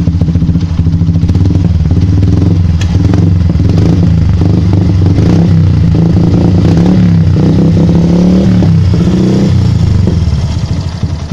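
Yamaha Byson's single-cylinder engine running with the revs raised for several seconds, then dropping back toward idle near the end, the exhaust popping. The popping persists even with the AIS (air induction system) hose blocked off.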